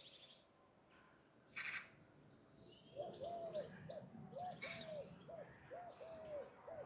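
Faint birdsong. From about three seconds in, a low call repeats roughly twice a second, while small songbirds chirp and twitter at a much higher pitch; a brief high call comes shortly before.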